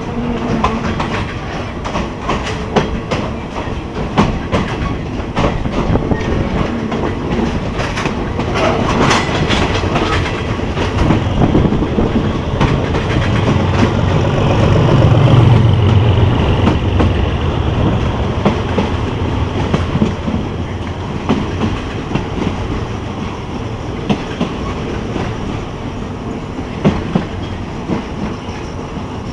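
Passenger train running along the track, its wheels clacking over the rail joints. A low rumble swells to its loudest about halfway through, then eases off.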